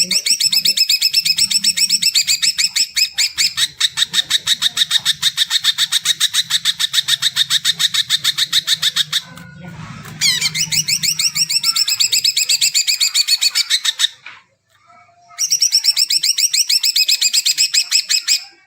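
Green leafbird (cucak ijo) singing a loud, rapid run of repeated high notes in three long bouts, with short breaks about nine seconds in and again near fourteen seconds. This is song of the kind used to stimulate other leafbirds into singing.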